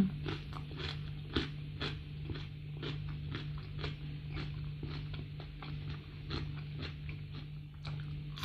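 Close-miked chewing of crunchy food, with crisp crackles a few times a second over a steady low hum, and a bite into crispy fried salted fish near the end.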